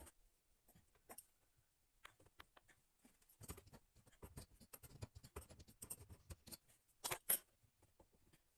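Faint clicks and light scraping of a small adjustable wrench working the nut on a faucet supply line under a sink, with two sharper clicks about seven seconds in.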